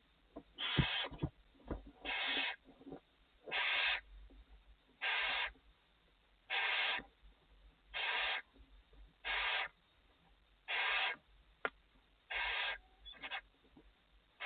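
Barn owl giving its hissing snore call in the nest box, about ten rasping hisses of half a second each, one roughly every one and a half seconds, with a few scratchy clicks of movement on the box floor near the start.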